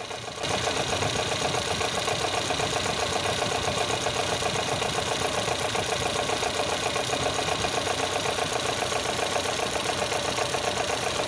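Volvo B20 pushrod four-cylinder engine idling with a steady, rapid clatter that sounds like a diesel: the sign of a worn fiber timing gear.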